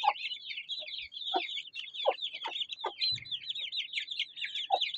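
A crowd of Aseel chicks peeping continuously, in quick down-sliding peeps, while they feed, with a few short, lower clucks scattered through.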